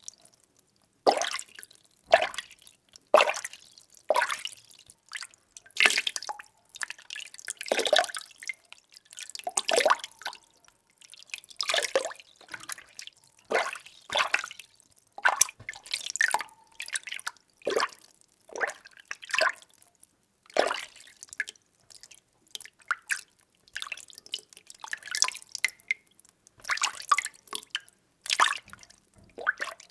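Water being stirred in a container: short liquid swishes and sloshes, roughly one a second, with brief quiet gaps between them.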